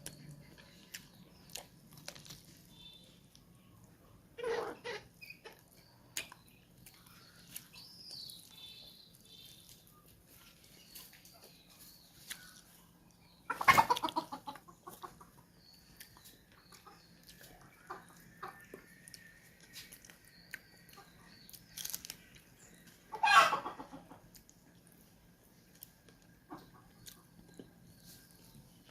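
Chickens clucking, with three louder calls about 5, 14 and 23 seconds in, over faint chewing and mouth clicks.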